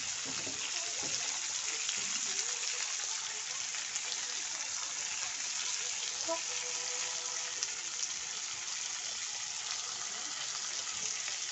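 Onion, capsicum and tomato frying in oil in a metal kadai: a steady sizzling hiss.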